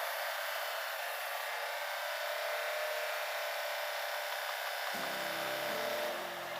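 A steady hissing noise with no low end. About five seconds in, background music with sustained notes comes in under it.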